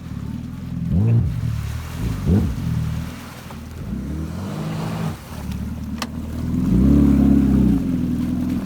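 Honda Aquatrax R-12X Turbo's turbocharged four-cylinder engine running through an open straight-through exhaust that bypasses the muffler and water lock, blipped quickly three times, then held at a higher rev for about a second before dropping away at the end.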